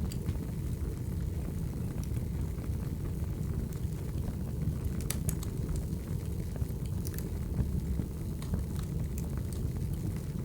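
Wood fire burning: a steady low rumble of flames with scattered crackles and pops, a few sharper pops about halfway through.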